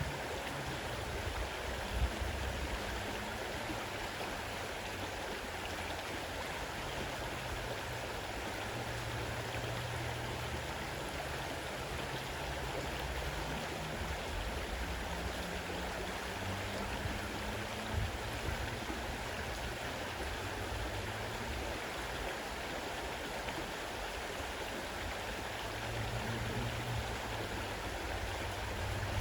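Fast-running river: a steady rush of water with a low rumble underneath.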